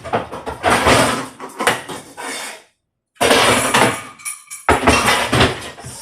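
Kitchen dishes, pans and utensils clattering as things are rummaged through in a search, in irregular loud bursts, with a short complete break a little before the middle.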